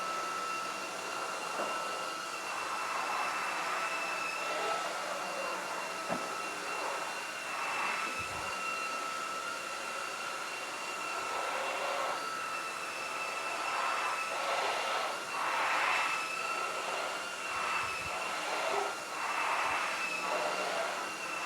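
Proscenic WashVac F20 cordless wet-dry floor cleaner running: a steady high motor whine with suction and brush-roller noise that swells and fades as the cleaner moves.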